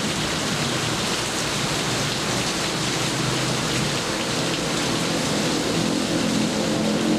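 Steady heavy rain falling, an even hiss with no let-up. Near the end a low, steady-pitched hum begins to rise underneath it.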